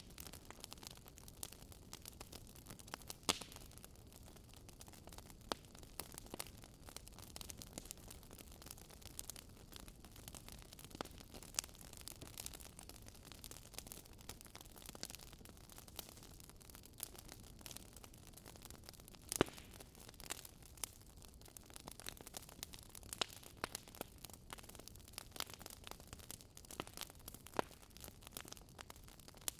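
Wood campfire crackling, with irregular sharp pops and snaps, a few of them louder (about 3 seconds in and near the middle), over a steady soft rush of the river.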